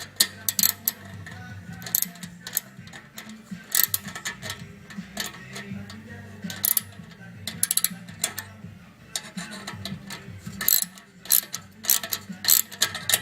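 Hand socket ratchet clicking in short, irregular runs as it tightens the bolt that clamps a turbo whistle onto a car's exhaust pipe.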